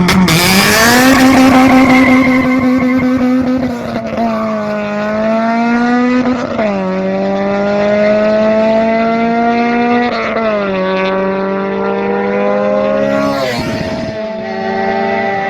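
Honda K20 four-cylinder engine under hard acceleration. Its pitch climbs through each gear and drops sharply at four upshifts.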